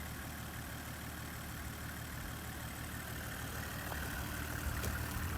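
Toyota Coaster HZB40 bus's 1HZ 4.2-litre straight-six diesel engine idling steadily.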